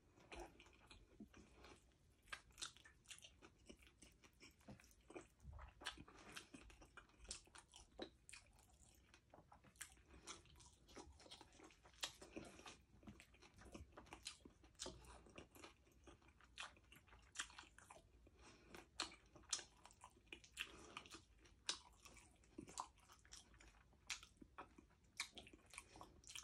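Quiet close-up chewing of a crispy pata kare-kare meal eaten by hand, with many small irregular crunches and bites throughout.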